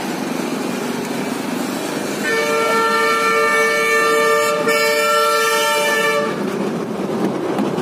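Steady street traffic noise, with a long horn blast starting about two seconds in and holding one steady chord for about four seconds before cutting off.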